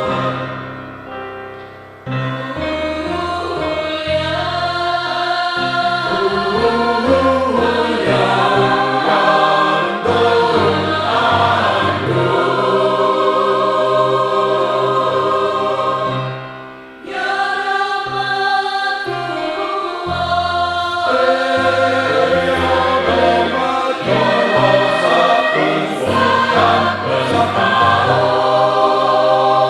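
A choir singing in harmony, holding sustained chords. The sound falls away briefly twice between phrases, shortly after the start and about halfway through.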